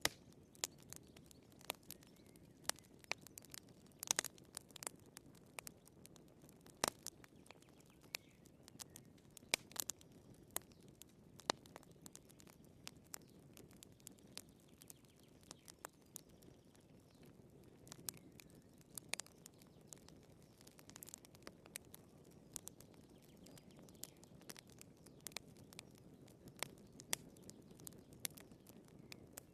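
Firewood burning in a fireplace, crackling: irregular sharp pops and snaps, a few of them louder, over a soft steady rush of the fire.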